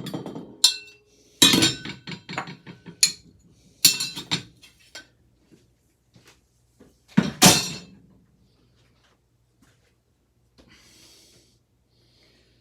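Metal ceiling fan parts clinking and clattering as they are handled, with several separate clanks and a louder clatter about seven seconds in.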